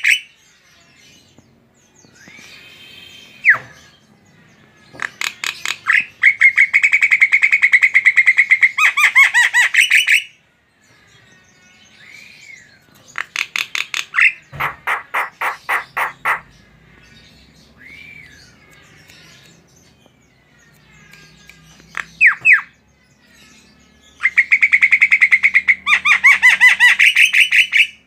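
Javan myna calling in loud bursts of fast, rattling, repeated notes, the longest lasting about four seconds. Between the bursts come single short whistled notes and, past the middle, two quick downward-sliding notes.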